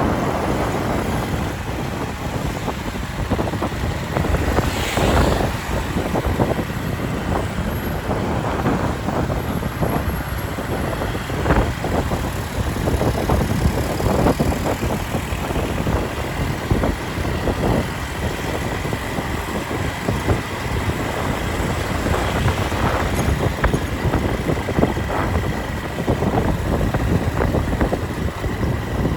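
Riding a motorcycle through city traffic: steady engine and road rumble mixed with surrounding vehicles, with the wind buffeting the microphone unevenly.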